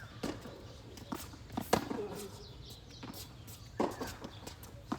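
Tennis rally: sharp pops of rackets striking the ball and the ball bouncing on the court, half a dozen hits spread irregularly, the loudest about two seconds in.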